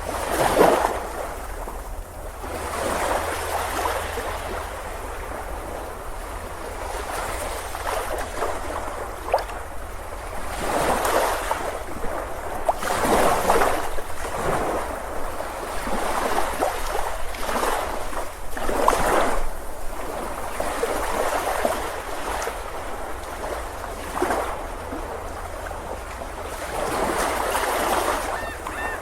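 Ocean surf breaking and washing up on a beach. The noise swells and falls every few seconds as each wave comes in, over a steady low rumble.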